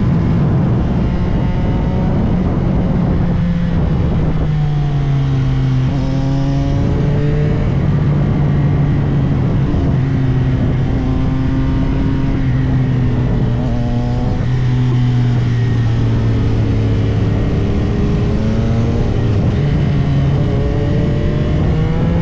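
CFMOTO 675SR-R's 675 cc inline-three engine running hard on the road, its pitch rising and falling as the throttle is worked and gears change.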